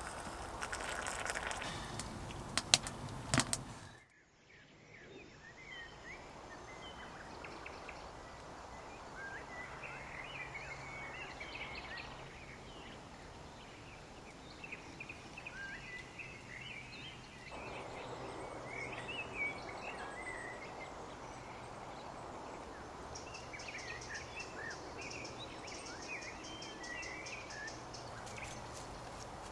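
Woodland ambience: small birds chirping in short, scattered calls over a low, steady background hiss. A few sharp knocks sound in the first few seconds, before a sudden cut.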